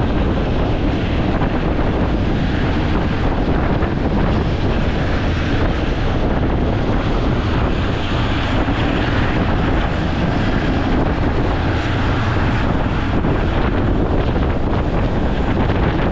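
Wind buffeting the microphone from an open window of a moving train, over the steady rumble of the carriage running on the track.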